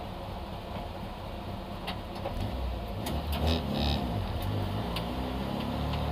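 Citroën AX GTI rally car's four-cylinder engine heard from inside the cabin, running under light throttle at low speed and picking up a little about three seconds in. A few sharp clicks and rattles from the cabin come through.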